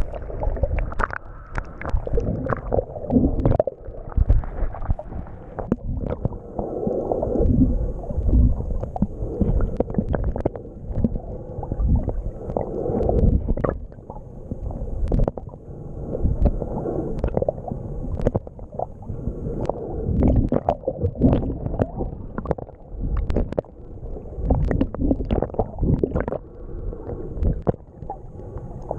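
Muffled, churning rush of water with irregular slaps and knocks during a jet ski ride, much of it rumbling low and dull as if heard through a waterproof camera housing.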